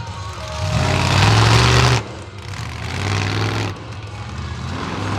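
Monster truck engine revving hard in two bursts, the first louder and rising, each cutting off sharply as the throttle drops.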